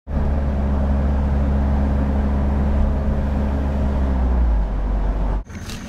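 An engine running steadily with a low, even drone; it stops suddenly about five and a half seconds in.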